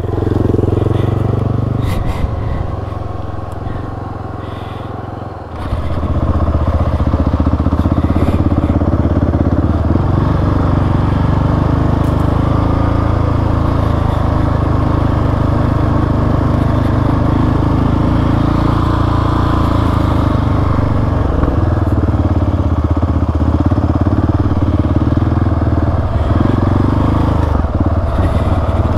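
Single-cylinder dual-sport motorcycle engine riding through soft sand. It pulls off at a lower level, then rises sharply about five seconds in and holds a steady, loud drive.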